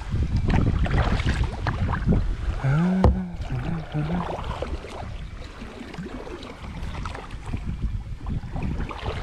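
Kayak paddle strokes splashing and dripping in lake water, with wind on the microphone. About three seconds in there is a sharp knock and a brief low sound that rises and falls in pitch.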